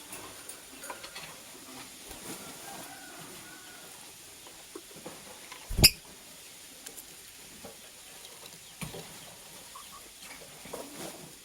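A lovebird in its cage making small scratching and rustling sounds, with a few faint chirps. One sharp, loud knock about six seconds in.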